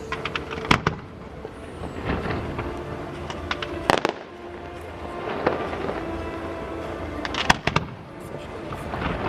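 Aerial fireworks going off: sharp bangs and crackling reports, the loudest about a second in, around four seconds in and again near the end, with music playing beneath them.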